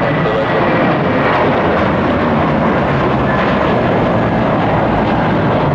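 Airbus A320 jet engines at high power on departure: a loud, steady rush of jet noise with no breaks.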